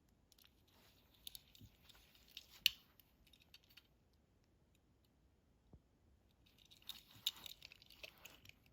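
Small die-cast toy cars being handled and set down: faint clicks and light rattles in two short spells, one sharper click a few seconds in.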